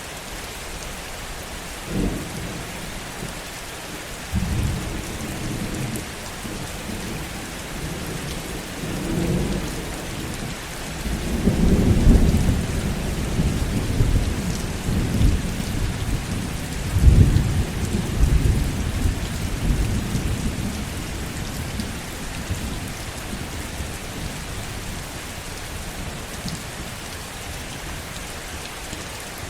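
Heavy rain falling steadily while thunder rolls: a sharp clap near the start, rumbles that build to the loudest peak before halfway, another sharp clap a little after halfway, then the thunder dies away under the rain.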